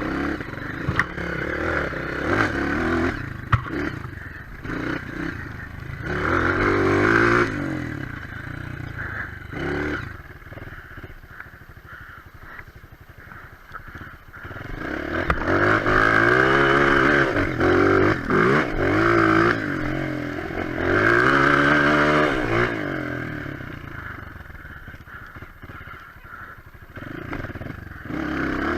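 Single-cylinder four-stroke trail bike engine revving up and down while riding on a muddy, slippery trail, in several loud surges with quieter stretches between them, and a few sharp knocks in the first few seconds.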